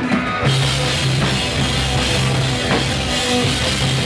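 Rock band playing: a few sustained guitar notes, then about half a second in the full band comes in with drums and distorted guitars over a held bass note.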